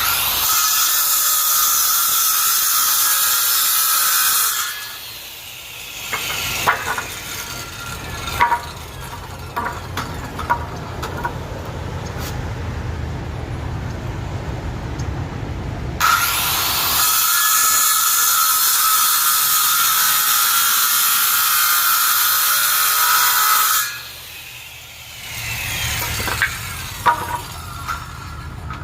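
Electric power saw cutting boards: twice the motor runs loud and steady through a cut, the first for about four seconds and the second for about eight, and each time the blade's pitch falls as it spins down. Between the cuts there are scattered knocks and clicks as the wood is handled.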